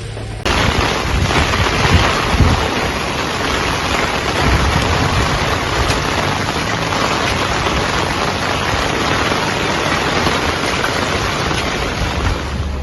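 Heavy storm rain pouring down, a loud steady rush of noise that starts abruptly about half a second in.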